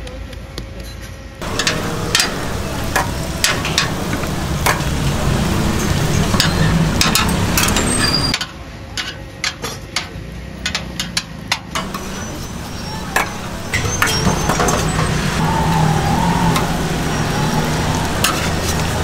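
Vegetable egg rolls sizzling as they pan-fry on a hot griddle, over a steady low rumble, with frequent sharp clicks and knocks of cooking utensils.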